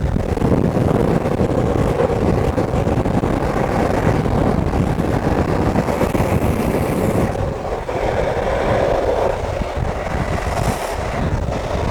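Skateboard wheels rolling fast on asphalt, a steady rumbling road roar with wind buffeting the microphone, shifting abruptly a few times.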